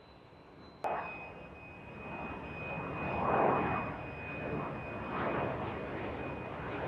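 Aircraft engine noise from a flying display pass, starting abruptly about a second in. It swells to a peak a couple of seconds later, then eases back to a steady rush. A faint steady high whine runs over it.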